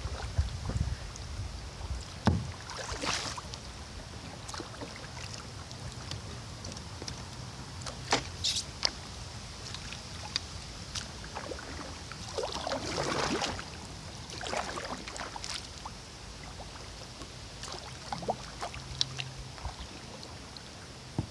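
Kayak paddle dipping and swishing through the water in irregular strokes a few seconds apart.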